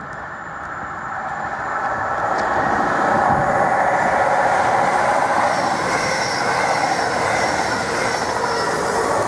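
CrossCountry Voyager diesel multiple unit approaching and running through the station at speed: its wheel and rail noise grows louder over the first three seconds, then stays loud as the cars pass close by. A faint high whine joins about halfway through.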